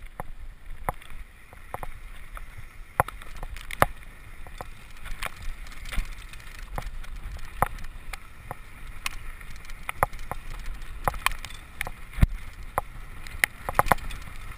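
Mountain bike descending a rough trail: steady rolling noise with many irregular sharp clicks and knocks as the bike rattles over bumps and rocks, and a low rumble of wind on the microphone.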